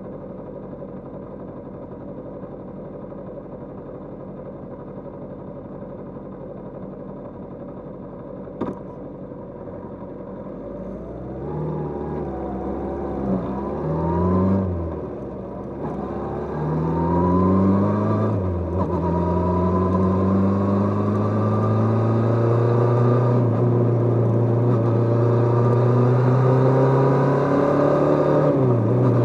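Kawasaki GPZ550 air-cooled inline-four motorcycle engine idling, with a single click about nine seconds in. It then pulls away and accelerates, its pitch rising and dropping at each gear change, and settles into a louder, steady run as speed builds.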